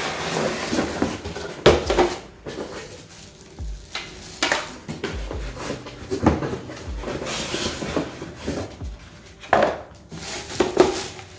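Rustling packaging with several sharp knocks and clacks of hard plastic as a humidifier is lifted out of its box and handled.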